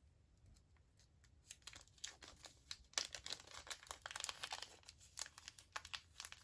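Plastic packaging crinkling and tearing in quick, faint crackles that start about a second and a half in and grow busier, as a new replacement battery is unwrapped.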